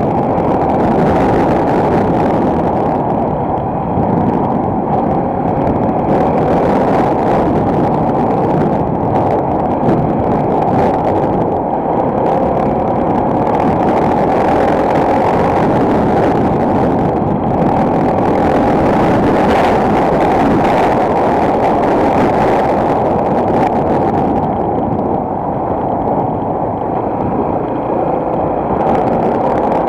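Enduro motorcycle engine running steadily while riding, mixed with wind rush, heard muffled with little high-pitched sound.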